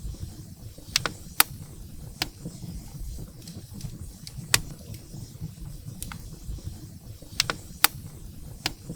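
Wood fire burning in a fireplace: the firewood crackles and pops sharply at irregular intervals, about eight times, over a low steady rumble of the flames.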